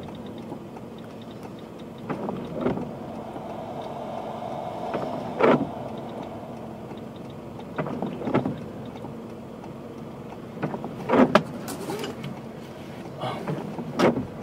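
Car windshield wipers sweeping: a pair of short strokes, out and back, about every three seconds, over the steady hum of the idling engine.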